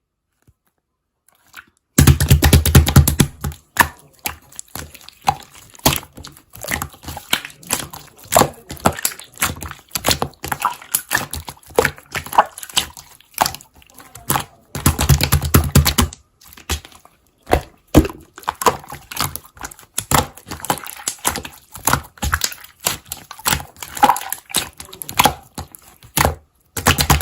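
Slime being squished and worked by hand, a dense, irregular run of small crackles and clicks. It starts about two seconds in, with louder, fuller bursts of squishing at the start, around the middle and near the end.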